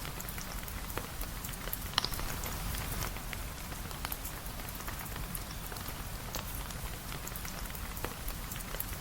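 Steady rain, an even hiss with a low rumble beneath, dotted with scattered sharp ticks and pops; one louder pop comes about two seconds in.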